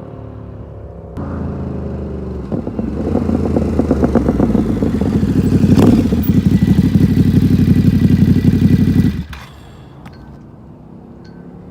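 Ducati Supersport S's 937 cc L-twin running hard through a Competition Werkes exhaust, a fast pulsing exhaust note that grows louder to a peak about six seconds in, then cuts off abruptly to a much quieter engine sound near the end.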